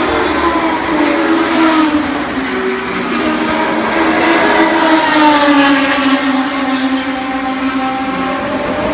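A vehicle engine running steadily, its pitch drifting up and down, with a slow dip in pitch over the last few seconds.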